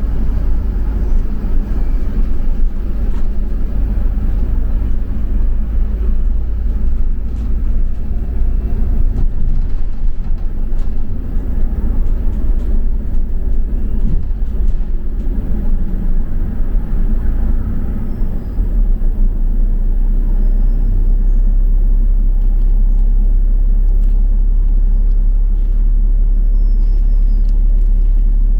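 Inside a double-decker bus on the move: steady low engine and road rumble with faint rattles and knocks. About two-thirds of the way through it settles into a steadier, heavier low drone.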